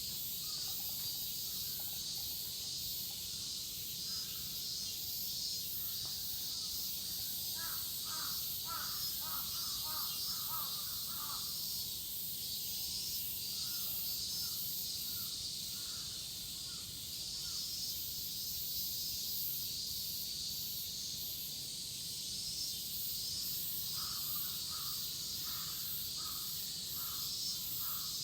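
Cicadas droning in a steady, high-pitched summer chorus. A bird's short repeated calls come in three runs: about a third of the way in, just after, and again near the end.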